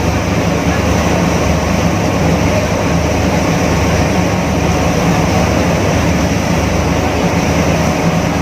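A ferry's engine running steadily, a low unbroken drone, with a steady rushing noise over it.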